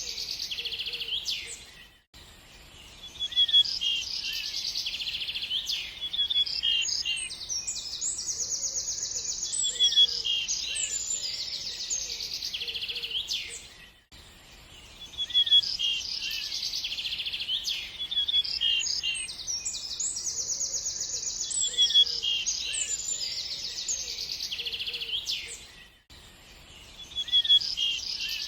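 Songbirds chirping and trilling in rapid high phrases. The same stretch of recorded birdsong repeats about every 12 seconds, each repeat starting after a brief dip in level.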